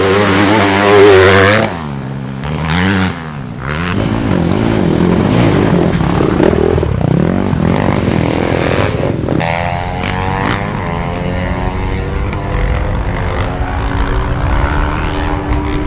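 Motorbike engines revving in a cartoon race, the pitch wavering up and down. A steadier engine drone takes over about nine and a half seconds in.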